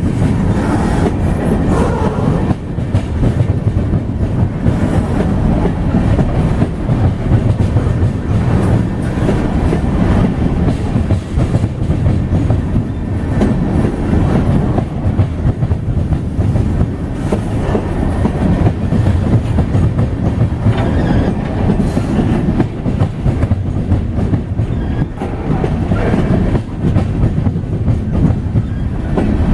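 Loaded or empty unknown: a long string of coal cars on a BNSF freight train rolling past at close range, a steady heavy rumble with the wheels clattering over the rails.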